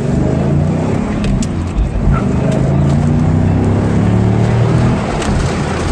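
Chevrolet Camaro engine accelerating, its pitch climbing and dropping back several times as it shifts up through the gears.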